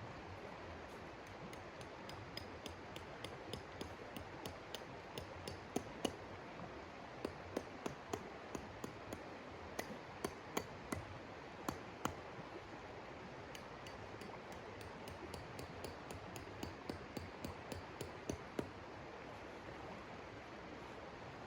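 Wood fire crackling in a hot tent's wood stove: irregular sharp pops and snaps, several a second at their busiest, over a steady hiss of wind.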